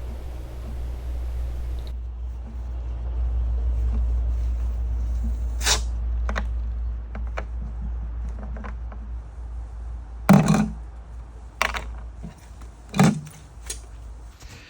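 A steady low rumble with a few sharp knocks and thumps, the loudest about ten and thirteen seconds in.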